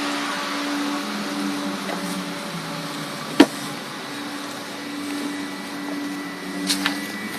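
Webasto Thermotop C diesel water heater running during start-up, a steady fan whir with a low hum. A single sharp click about three and a half seconds in, and a few faint clicks near the end.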